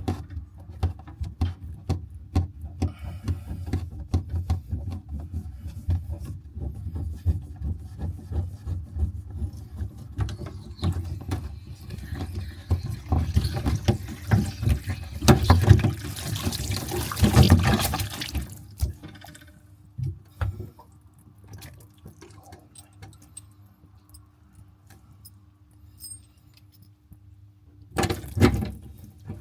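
A pipe cutter being worked around a water pipe with rough clicking strokes, then water rushing and hissing out of the cut pipe for several seconds around the middle, falling back to a quieter trickle. Another short rush of water comes near the end.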